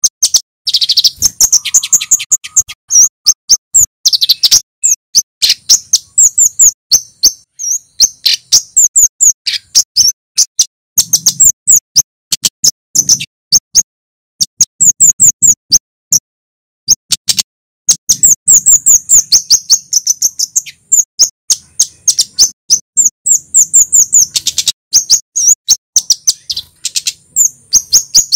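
Male kemade flowerpecker calling: rapid runs of sharp, high 'cit' chirps, many to the second, in bursts broken by brief pauses.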